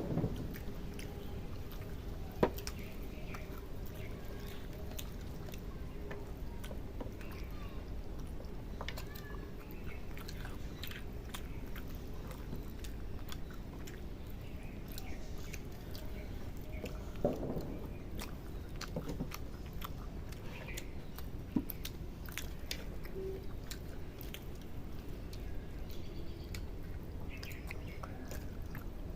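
People chewing and eating a meal of rice and egg curry: a run of small wet mouth clicks and smacks, with a few sharper clicks or knocks, over a steady low hum.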